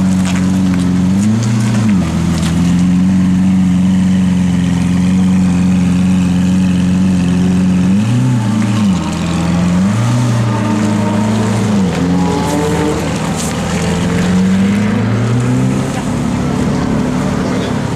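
Lamborghini Aventador's V12 idling, with short throttle blips about a second and a half, eight and ten seconds in, each a quick rise and fall in pitch, and a longer stretch of raised revs from about twelve to fifteen seconds in. People talk underneath.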